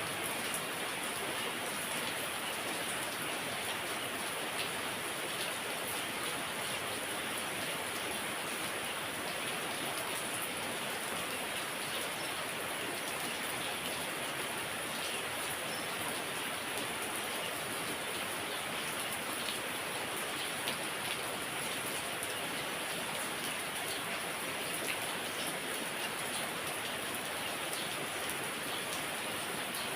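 Heavy rain falling steadily: a dense, even hiss of rain with scattered drop ticks.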